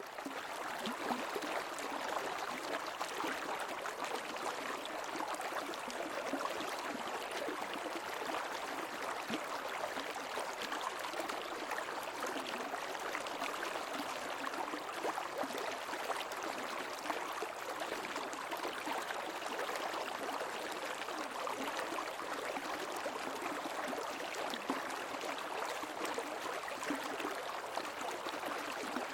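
Creek water flowing and babbling, a steady rush with fine gurgling detail.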